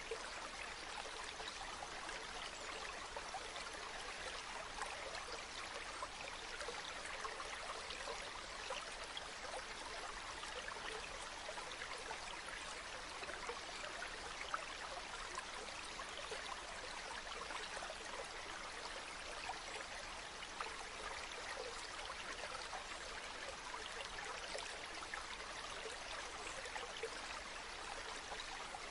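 River water flowing over stones, a steady rushing babble dotted with small splashes and trickles.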